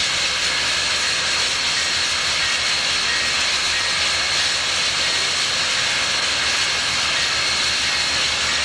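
Union Pacific 3985, a 4-6-6-4 Challenger steam locomotive, giving off a steady, loud hiss of steam.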